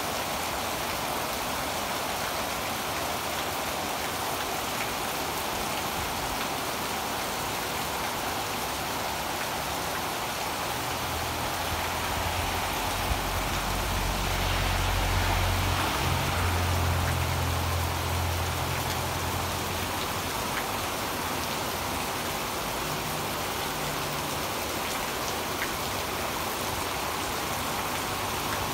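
Heavy rain pouring steadily on leaves and the ground. From about eleven seconds in, a low rumble swells and fades over some eight seconds.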